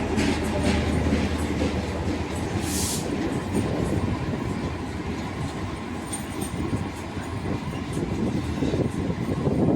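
A train rolling past, its wheels clacking over the rail joints, with a low engine drone that fades in the first few seconds and a short hiss about three seconds in.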